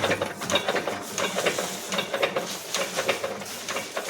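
Belt-driven chaff cutter and diesel engine running down after shutdown, the mechanism clicking rhythmically, about three clicks a second.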